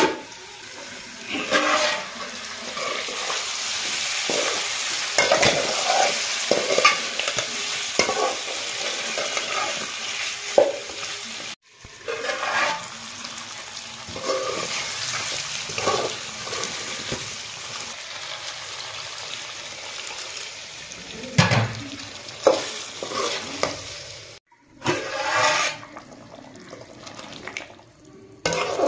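Chicken pieces in masala sizzling and frying in a metal pot while a metal spatula stirs and scrapes against the pot, with short scraping knocks every second or so. The sound cuts out abruptly twice.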